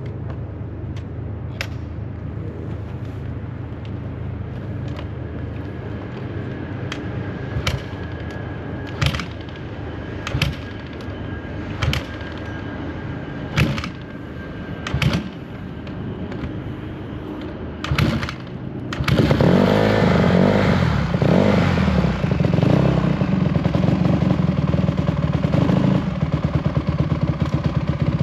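Steady low rumble with a sharp click or knock every second or two; about two-thirds of the way through, a dirt bike's engine starts up and keeps running loudly.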